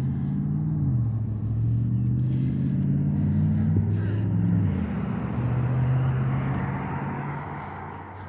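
A road vehicle's engine pulling away through the gears, its pitch dropping at each shift about a second in and again near the middle. Tyre noise swells and fades as it passes.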